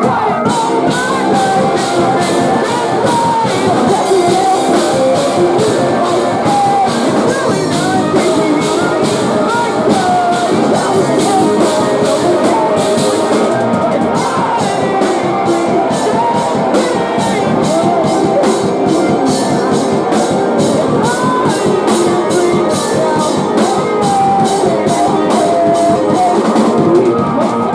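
Post-hardcore band playing live and loud: distorted guitars over fast, driving drums, with a heavy cymbal wash through the first half that eases about halfway.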